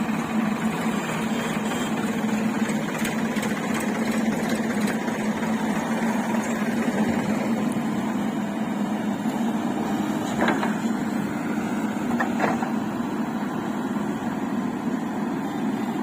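Heavy diesel engine running steadily at an even speed, with a couple of light knocks about ten and twelve seconds in.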